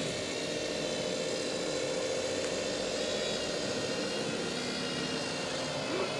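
Steady whine of a small motor holding one pitch, with several overtones above it.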